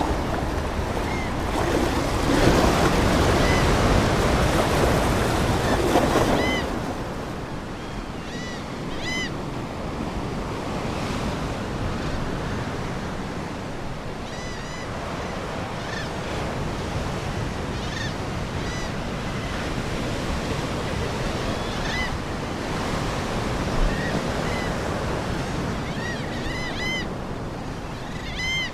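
Ocean waves washing onto the shore, loud for the first six seconds as a wave breaks and then settling to a steady wash. Seagulls call at intervals, several in quick succession near the end.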